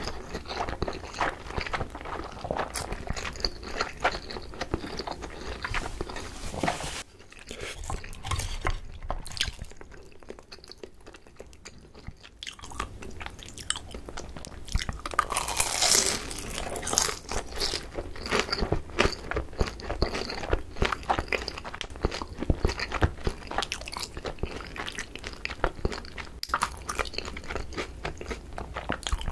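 Close-miked chewing and biting of crispy pan-fried pollock-roe dumplings: crunching of the fried skin with wet mouth sounds. The chewing goes quieter for a few seconds about a quarter of the way through, then picks up again louder.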